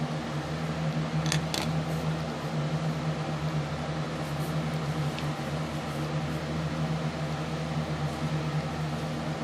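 A steady low machine hum with an even background hiss, like a fan or motor running, with two faint clicks about a second and a half in.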